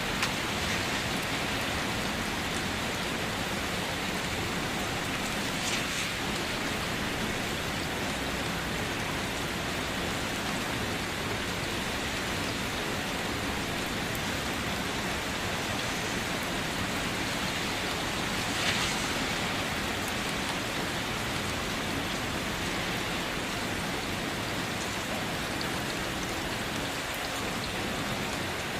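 Steady rain falling on a surface, an even hiss of many drops, with a couple of louder single drops about six and nineteen seconds in.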